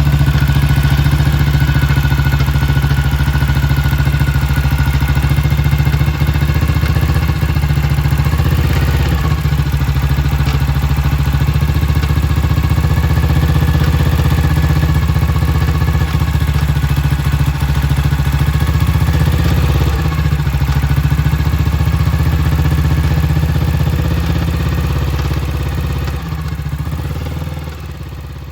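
1956 BSA Gold Star DB34's 500 cc single-cylinder engine running steadily, then dying away as it is shut off near the end. The owners are listening for a chattering knock from the primary side, which they suspect is in the belt-drive clutch and which is still there after the clutch was greased and tightened.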